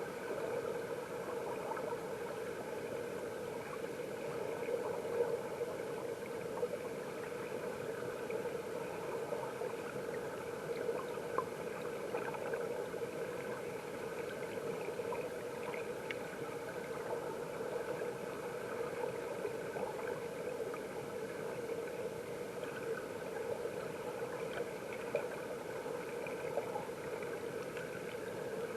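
Stream water heard from underwater through a submerged camera: a steady, muffled rushing and gurgling with scattered faint ticks.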